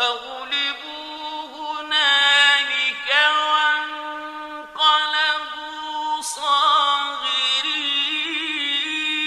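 A man's voice reciting the Quran in a melodic, chant-like style, holding long ornamented notes over several phrases, the pitch wavering in a trill-like ornament near the end.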